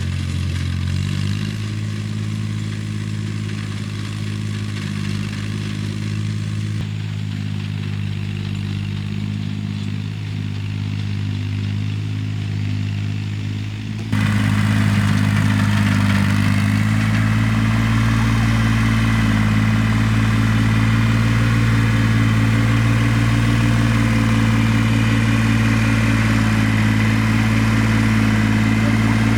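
An engine running steadily at constant speed. About halfway through it abruptly becomes louder and changes slightly in pitch, then stays steady.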